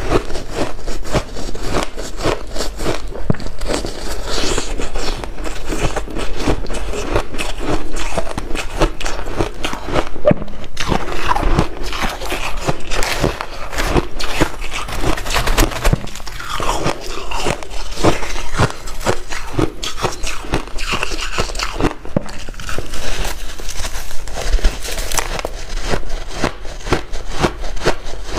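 A person biting and chewing white ice, a dense, continuous run of crisp crunches.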